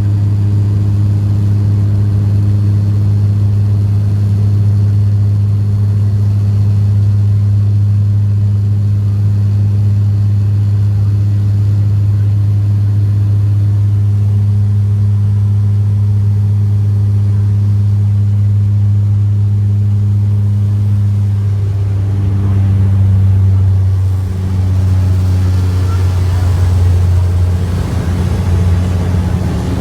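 Bombardier Q400 turboprop heard from inside the cabin: the propellers give a steady, loud, low drone. From about two-thirds of the way in, the drone wavers and a rushing noise grows over it.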